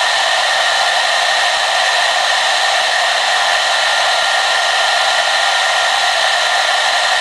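Hair dryer running continuously, a steady rushing hiss of blown air with a constant motor whine, unchanging throughout.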